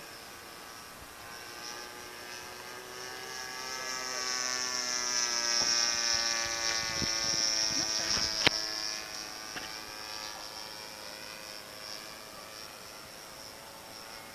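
Model airplane's 20cc gas engine and propeller passing overhead: the engine tone swells over a few seconds, dropping a little in pitch as it goes by, then fades away. A single sharp click is heard about eight and a half seconds in.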